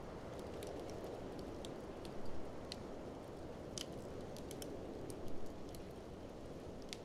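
Wood fire crackling with scattered sharp pops, the strongest about four seconds in, over a steady rushing blizzard wind that swells briefly twice.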